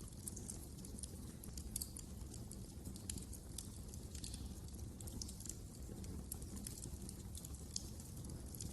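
Wood fire crackling in a fireplace: irregular small pops and snaps over a low, steady rumble of the flames.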